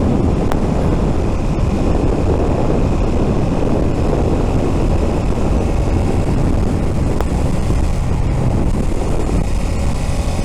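Suzuki SV650's V-twin engine running steadily while the motorcycle is ridden along, with wind and road noise.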